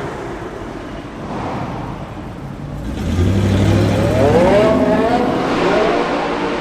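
A car engine running low for a few seconds, then revved from about three seconds in, its pitch climbing and dipping a couple of times before settling.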